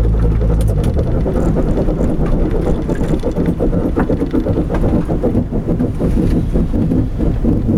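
Mitsubishi Eclipse GSX's turbocharged four-cylinder engine heard from inside the cabin as the car creeps along at low speed. A steady low drone eases off about a second in, and the engine then runs unevenly at low revs.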